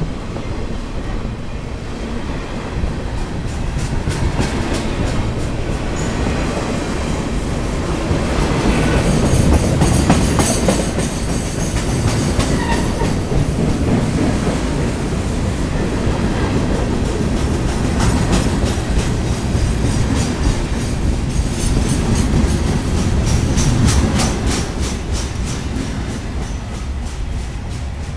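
Freight cars of a CSX mixed freight train rolling past at close range: a steady rumble with the clickety-clack of wheels over the rail joints. Near the end the last car goes by and the noise begins to ease.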